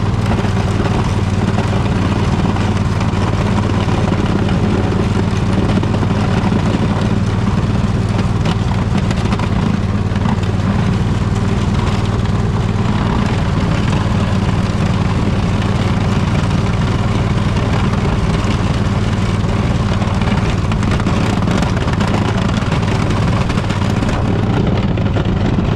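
Poulan riding lawn tractor's engine running steadily under load while it clears snow.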